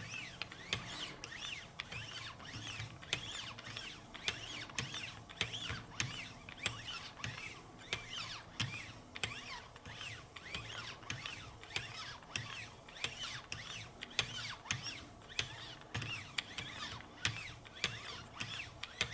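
Wicked Edge guided sharpener's fine abrasive paddles stroked rhythmically along the S90V steel blade of a Benchmade Altitude, a steady run of quick strokes with a light squeak on each, as the edge is polished toward a mirror finish.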